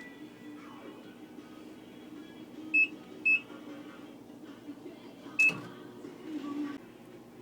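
Three short, high electronic beeps from a microwave oven's keypad as it is set: two in quick succession about three seconds in, a third about two seconds later.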